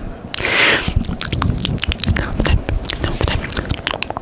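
Close-miked wet, sticky mouth sounds: fast irregular clicks and smacks of tongue and lips, with a short breathy hiss about half a second in.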